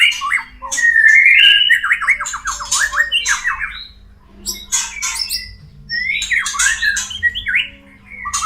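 White-rumped shama (murai batu) mating calls: fast runs of harsh, rattling notes mixed with whistled phrases, in two spells with a short pause between.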